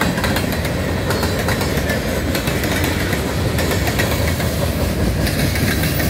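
Freight train cars rolling past close by: a loud, steady rumble of wheels on rail with a run of small clicks and rattles.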